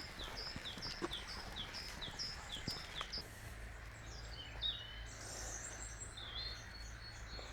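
Small birds singing: a series of short, high notes sliding downward, repeated about two to three times a second, then from about three seconds in a jumble of higher chirps and twitters.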